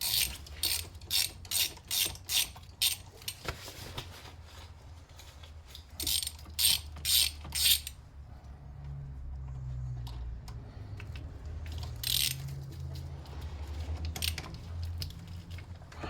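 Ratchet wrench clicking in runs of about two strokes a second as it loosens the nuts on the car battery's terminal clamps, first for about three seconds, then again about six seconds in.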